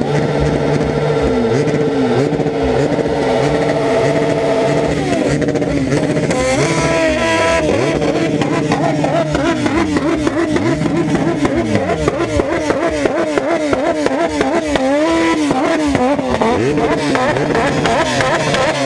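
Motorcycle engines running at a steady pitch, then revving, with the pitch rising and falling over and over from about five seconds in.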